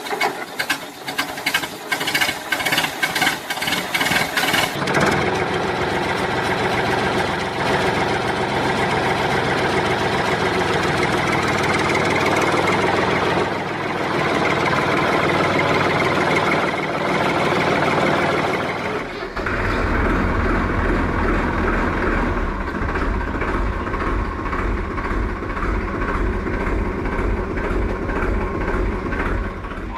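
A steady, engine-like mechanical running sound. It is loud throughout, with rapid clicking for the first five seconds and a deeper rumble from about nineteen seconds in.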